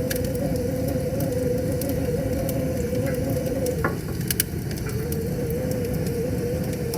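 Wood fire crackling with scattered sharp pops over the steady rush of a river. A wavering hum runs underneath, dropping out about four seconds in and returning a second and a half later.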